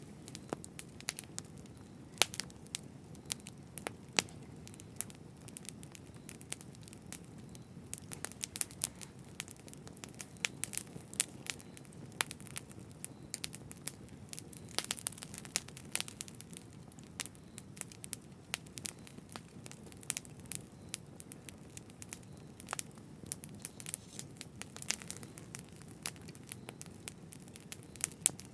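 Campfire burning: a steady low hiss of flames with frequent irregular sharp crackles and pops of burning wood.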